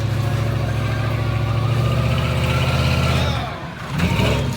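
Monster truck engine running hard and steady, then easing off briefly about three and a half seconds in before picking up again.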